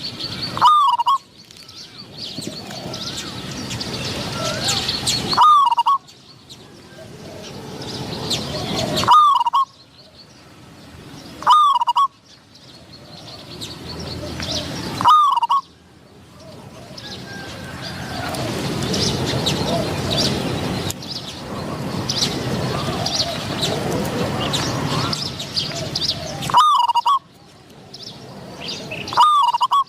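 Spotted doves cooing: short looping coo phrases, about seven in all, at uneven gaps over a background hiss that swells between the calls.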